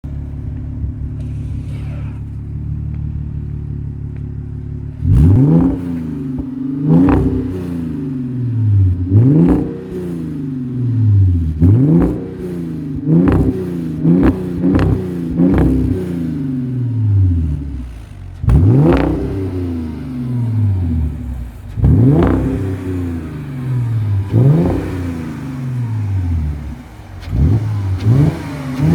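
Audi A5 3.2 V6 petrol engine running through a custom exhaust, idling steadily for about five seconds, then revved in a dozen or so quick blips, each rising sharply and falling back to idle.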